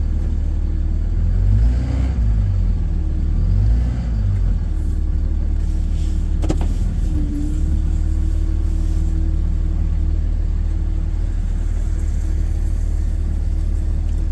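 Truck engine running at low speed, its note rising and falling twice in the first few seconds as it picks up and eases off, then settling to a steady hum. A single sharp click about six and a half seconds in.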